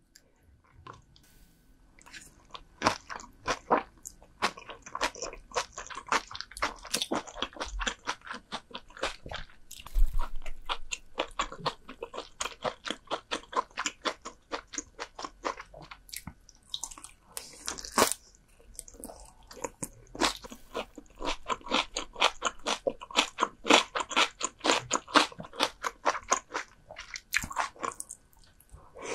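Close-miked chewing of crunchy food, a steady run of crisp crunches several a second with a few short pauses.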